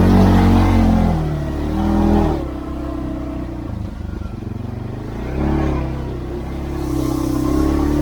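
CFMoto CForce 520L ATV engine running under way, its revs rising and falling with the throttle. It is loud at first, eases off after about two seconds, then picks up again around the middle and once more near the end.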